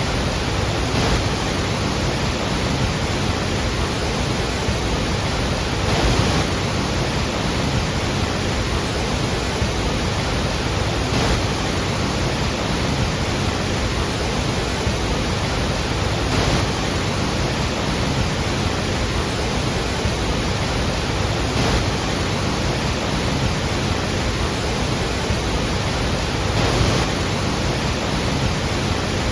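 Iguazu Falls: a steady, loud roar of falling water, with slight swells about every five seconds.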